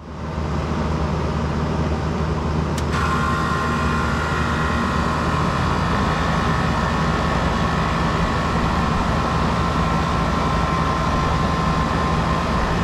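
A 2001 Carrier 38CKC 2.5-ton central air conditioner condensing unit starting up and running with a steady low hum. About three seconds in there is a sharp click, and a steady higher whine joins the hum.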